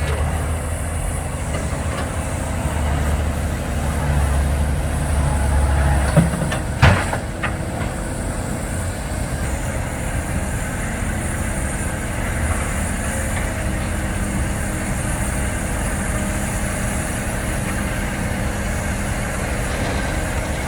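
Heavy diesel machinery working on an earthworks site, the engine running loud and low for the first six seconds. Two sharp knocks come about six and seven seconds in, and the engine runs on more evenly after them.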